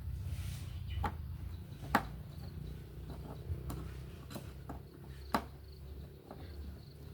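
A handful of sharp, irregular clicks and taps, the loudest about two seconds in and again past the five-second mark, over a low steady hum.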